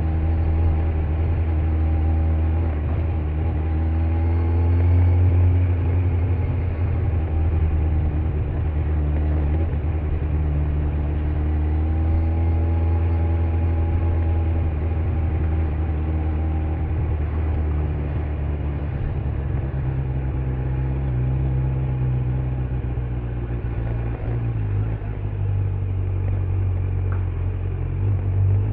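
2025 Kawasaki Z900's 948 cc inline-four with stock exhaust running under way, its pitch rising and falling gently with small throttle changes, with wind and road noise.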